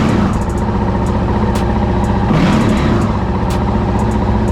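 Honda CRF450RL's single-cylinder four-stroke engine running at idle through its stock exhaust with the baffle removed. About halfway through, a quick throttle blip sends the revs up and back down to idle.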